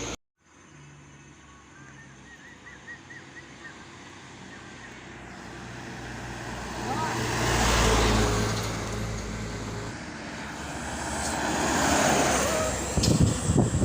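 Road traffic with vehicles passing: a steady low engine hum that swells twice, around 8 and 12 seconds in, with a burst of loud, irregular noise near the end.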